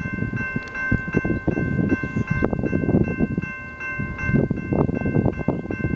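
Amtrak Keystone passenger train running past, with rumble and a quick run of wheel clicks. A long, steady, high ringing tone sounds over it and cuts off near the end.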